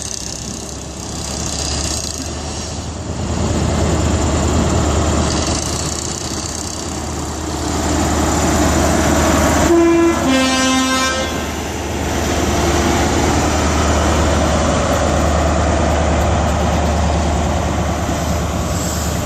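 Class 43 HST diesel power car running as the train pulls out. About ten seconds in comes a two-tone horn blast: a short higher note followed at once by a lower one.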